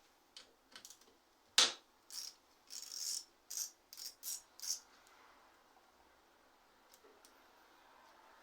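A quick run of short metallic clinks and rattles from bike parts or tools being handled, about a dozen of them over four seconds, the loudest about one and a half seconds in. After that only a faint hiss remains.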